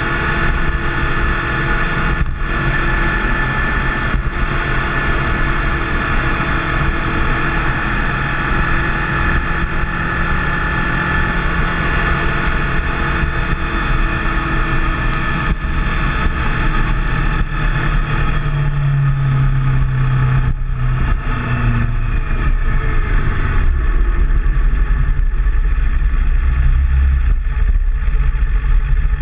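Motorcycle engine running while riding along, under steady wind and road noise. Its low engine note changes pitch in the second half, dropping lower about three quarters of the way through.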